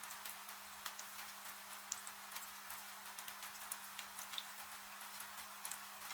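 Wood fire crackling with irregular sharp pops over a steady hiss of falling rain.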